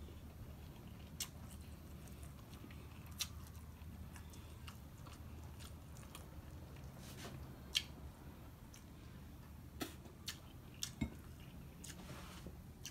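Faint chewing and mouth sounds of a person eating rice and fish by hand, with a few scattered short clicks and smacks.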